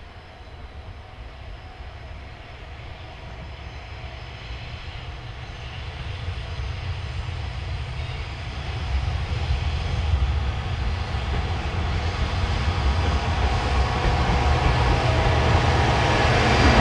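JR Freight EF210 electric locomotive hauling a container freight train, approaching and growing steadily louder: a low rumble with higher tones building in near the end as it draws close.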